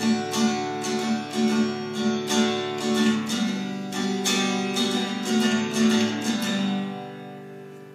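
Acoustic guitar strummed in an even rhythm, about two strokes a second, playing the song's closing chords; the strumming stops and the last chord fades out near the end.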